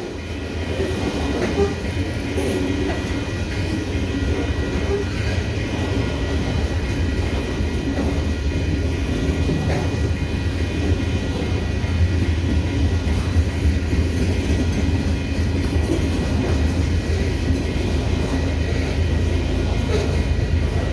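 Freight train passing at trackside: railcar wheels rolling over the rails with a deep, steady rumble that grows slowly louder.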